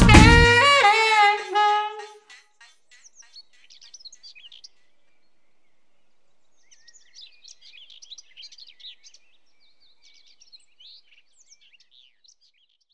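The last notes of a jazz piece end within the first two seconds, then faint birds chirping with short high calls, on and off.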